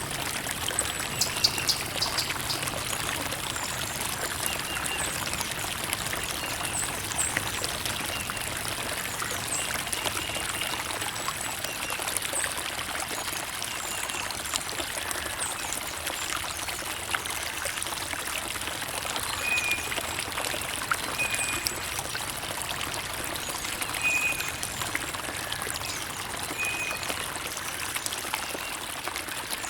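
Creek water trickling and bubbling steadily, with many small splashy ticks over an even rush.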